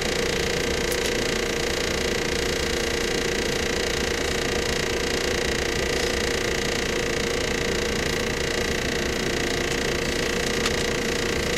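JR 115-series electric train running at a steady speed between stations, heard inside the motor car KuMoHa 115-318: an even whine from the motors and gears over the rumble of the wheels on the rails.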